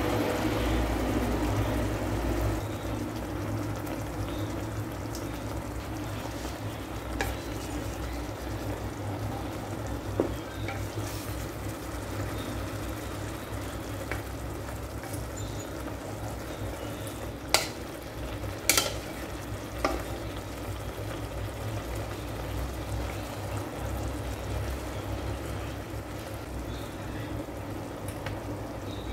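Chicken livers sizzling in sauce in a rice cooker's inner pot while a wooden spatula stirs and scrapes through them. A few sharp taps on the pot stand out partway through.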